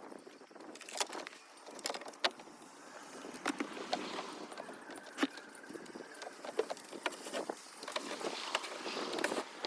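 Irregular clicks, taps and light metallic clatter of hand work with tools and loose hardware.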